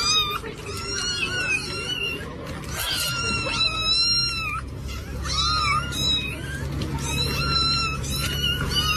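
Cat meowing over and over, a dozen or so high-pitched meows in quick succession with one longer drawn-out meow near the middle.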